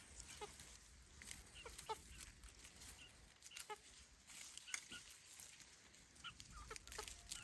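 Faint, scattered short bird calls, a chirp every second or two, with a few light clicks between them.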